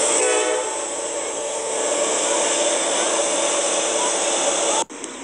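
Norfolk Southern diesel locomotives passing close by: a steady wash of engine and wheel-on-rail noise, with a brief pitched tone in the first second. The sound cuts off abruptly near the end.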